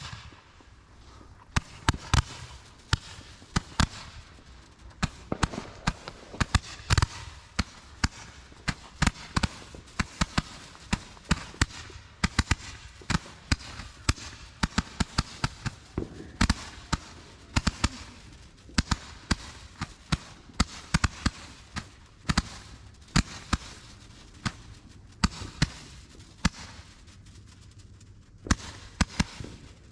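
Consumer fireworks going off: a long run of sharp, irregular cracks and pops, several a second, thinning out near the end.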